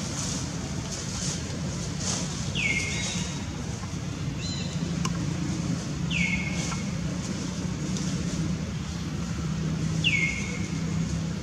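A bird calling three times, about four seconds apart, each call a short whistle that falls in pitch and then levels off. A steady low hum runs underneath.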